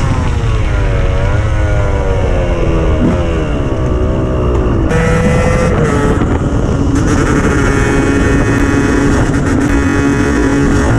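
KTM 125 EXC single-cylinder two-stroke engine revving briefly, then falling in pitch off the throttle with a sudden step up about three seconds in. From about halfway it holds a steady pitch.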